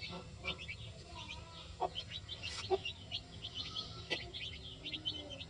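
Newly hatched chicks peeping continuously in many short, high cheeps, with about three short lower calls mixed in, typical of the Aseel mother hen clucking to her brood.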